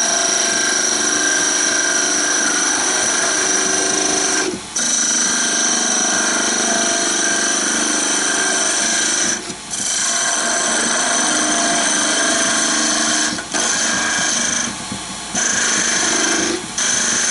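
Wood lathe running while a turning tool cuts into the spinning wood, making a sizing cut down to 17 mm. The steady cutting noise with a high whine drops out briefly four or five times as the tool comes off the work.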